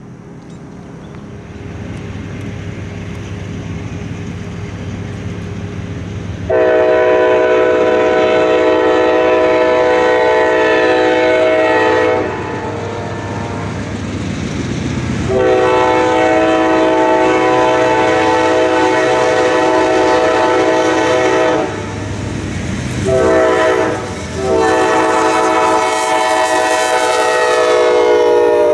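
Amtrak diesel locomotive No. 46 approaching, its engine rumble growing louder, then sounding its multi-chime air horn in the grade-crossing signal: two long blasts, a short one, and a final long blast.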